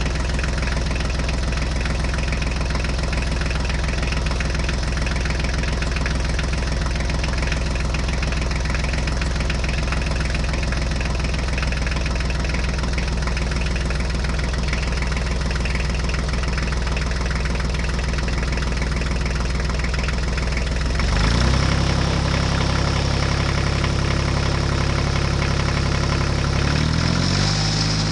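Vehicle engine idling steadily. About two-thirds of the way through, the pitch steps up and the sound grows a little louder as it revs, then the pitch shifts again in small steps near the end.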